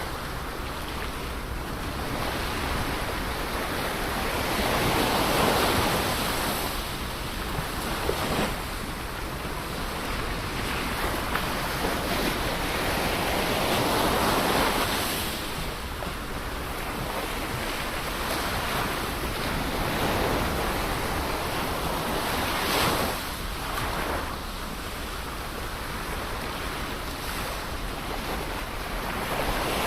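Ocean waves breaking and washing up the shore, the surf swelling and fading every several seconds.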